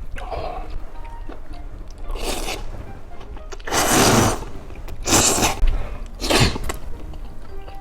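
A person eating close to the microphone: four short, loud, breathy slurps, the longest and loudest about four seconds in, with quieter chewing clicks between them.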